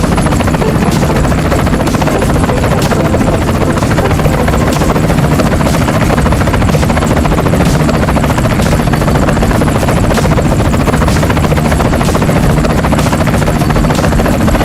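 Steady helicopter rotor sound: a fast, even chop over a loud roar.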